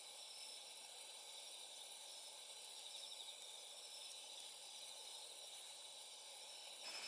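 Faint, steady chorus of night insects trilling over a low hiss.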